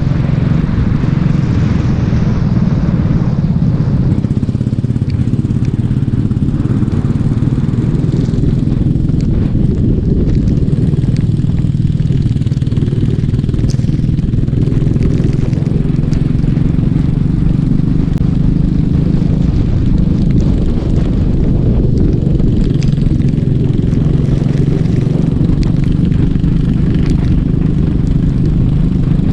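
Racing kart engine running steadily at high speed, a loud low drone that barely changes in pitch.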